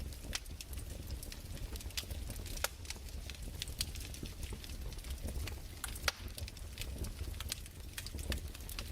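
Wood fire crackling: irregular sharp snaps and pops, a few each second, over a low steady rumble.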